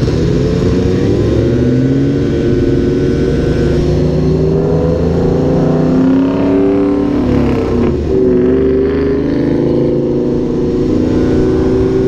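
Several car engines running and revving over one another, their pitch rising and falling as they accelerate and ease off.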